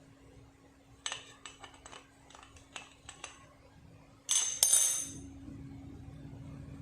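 Metal tools and engine parts clinking while an engine is being taken apart: a run of light clicks and clinks, then a louder metallic clatter about four seconds in.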